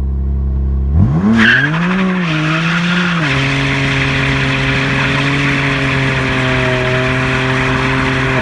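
Car doing a burnout: the engine revs up about a second in, then holds at steady high revs while the rear tyres spin and squeal under a loud hiss of tyre noise.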